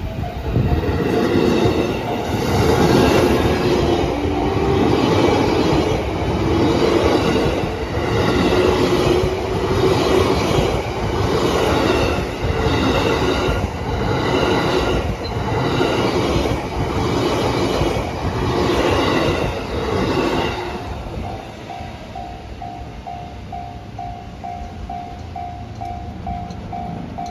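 JR East E233 series electric train running past at close range as it starts moving again, its wheels clattering over rail joints in a regular beat about every second or so. It passes about 21 seconds in, leaving a level-crossing warning bell ringing in a fast, steady repeat.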